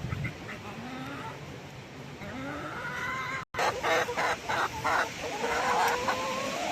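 Chickens clucking and calling, with a quick run of short, loud clucks starting about halfway through.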